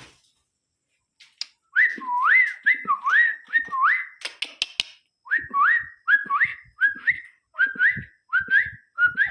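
Indian ringneck parrot whistling a repeated note that dips and then sweeps sharply up, about two notes a second, starting a couple of seconds in, with a short break and a few clicks partway through.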